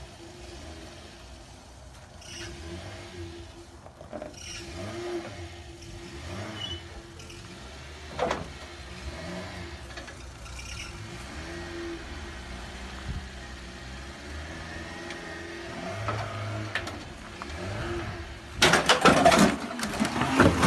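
Small car's engine running, with a steady low hum and a few faint clicks and knocks. Near the end comes a sudden, much louder run of crunching and clattering impacts lasting about two seconds.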